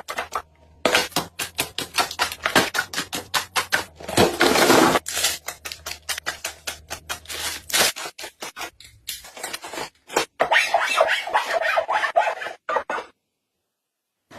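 Containers and packaging being handled and set in place: rapid clicking and tapping, several knocks a second, with two longer stretches of rustling and scraping, stopping abruptly near the end.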